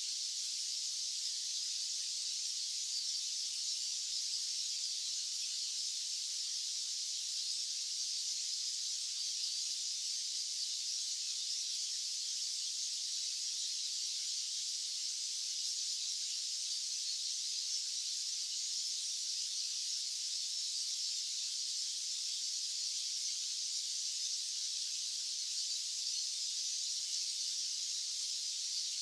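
Steady, unbroken white-noise hiss, high-pitched and thin with no low end.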